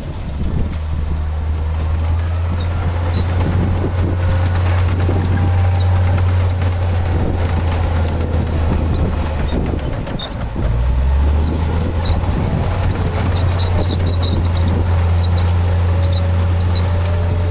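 Heavy diesel engine of an earthmoving machine running steadily at a low drone. About ten seconds in it briefly drops in level and pitch, then comes back up.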